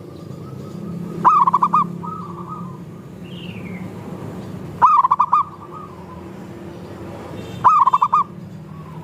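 Several zebra doves (perkutut) cooing. Three loud, trilling coo phrases come about three seconds apart, with fainter calls from other doves in between.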